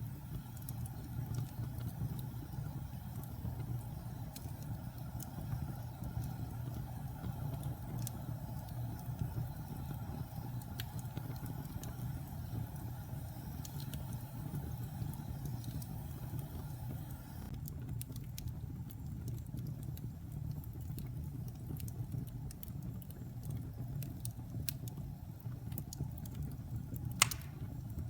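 Wood fire burning in a fireplace: a steady low rumble with scattered small crackles and one sharp pop near the end.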